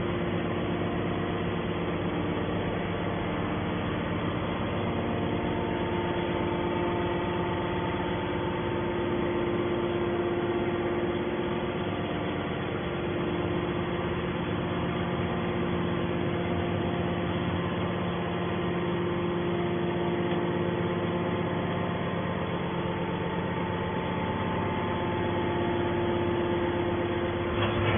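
Scrap metal baler running, a steady mechanical hum with a few fixed tones and no change in pace.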